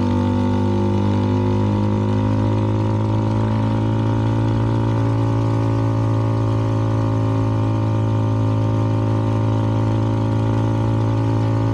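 Exhaust note of a CFMoto 300NK's single-cylinder engine through an aftermarket KO exhaust, running at a steady throttle with an unchanging pitch while cruising.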